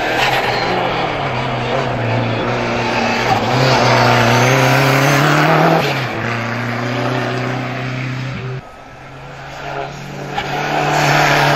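Renault 5 race car's engine revving hard through a slalom course, its pitch climbing and dipping with throttle and gear changes. The sound drops away abruptly about eight and a half seconds in, and the engine comes back loud near the end.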